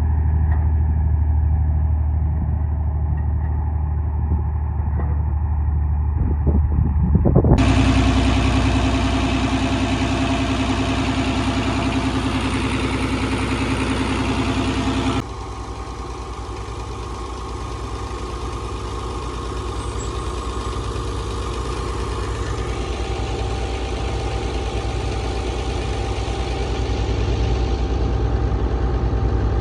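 Farm machinery engines running steadily at harvest, the engine note changing abruptly twice as the sound cuts from one machine to another.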